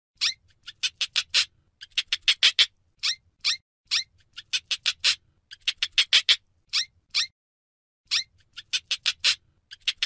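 Hamster squeaking: runs of short, sharp, high-pitched squeaks, several a second, in three bursts with brief pauses between them.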